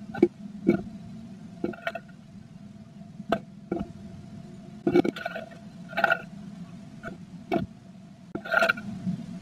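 Blue tit moving about inside a wooden nest box, making about a dozen irregular knocks and scrapes as it works nesting material, heard over a faint steady hum.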